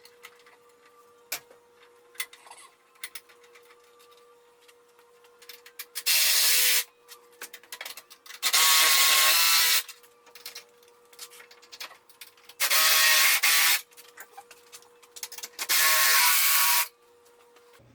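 A power tool, likely a drill, run in four short bursts of about a second each, with light clicks and knocks of handling between them.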